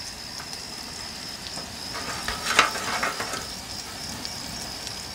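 Eggs and fern sprouts frying in olive oil in a pan over a gas burner: a steady sizzle with a few crackles about two to three seconds in. A steady high insect trill runs underneath.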